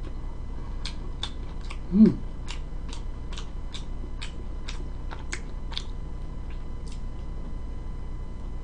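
Close-miked chewing of pepperoni pizza: a run of small wet mouth clicks, about two or three a second, with a brief hummed 'mm' about two seconds in.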